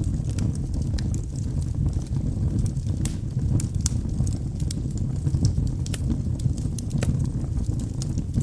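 Wood fire burning in a fireplace: a steady low rush of flames with many irregular sharp crackles and pops from the burning logs.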